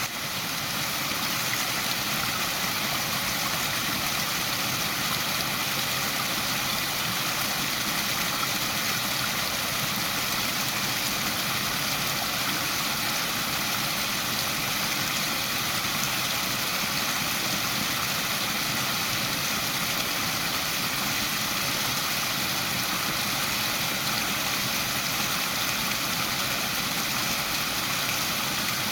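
Waterfall rushing steadily: a continuous, even hiss of falling water, briefly softer in the first second before settling.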